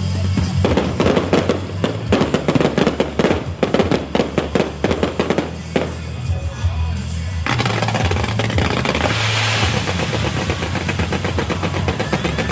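String of firecrackers going off in a fast, dense run of cracks for about seven seconds, then a hissing, crackling firework spray. Music plays underneath.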